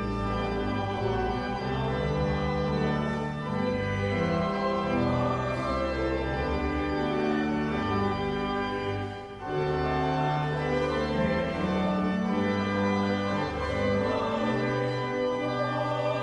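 Church organ playing sustained hymn chords that change every second or so, with a brief break between phrases about nine seconds in.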